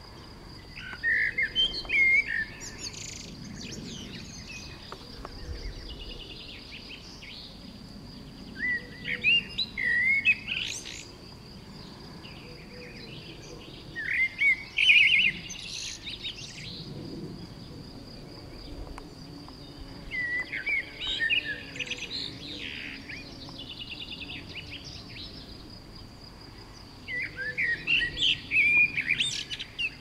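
A songbird singing a warbled phrase of about two seconds, five times, roughly every six seconds, over a faint steady high-pitched whine.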